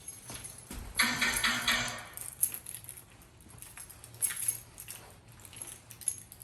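A bunch of keys jangling for about a second, followed by a few light, scattered clicks.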